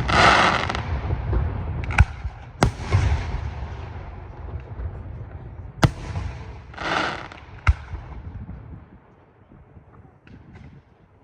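Aerial firework shells bursting: four sharp bangs, each trailed by a low rumbling echo, and two longer bursts of crackling hiss, one at the start and one about seven seconds in. The display grows quieter near the end.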